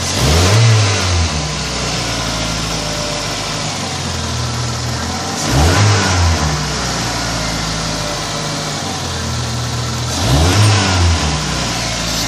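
Mazda 626 (GE) engine idling, blipped three times about five seconds apart, each rev rising and falling back within about a second. The revs pass through the 1500–2500 rpm range where the car has a whistle.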